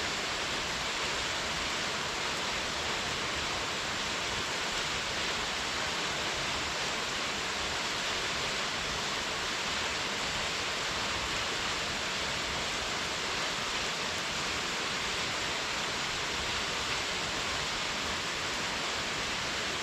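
Waterfall: a steady, unbroken rush of falling water, strongest in the mid and high range.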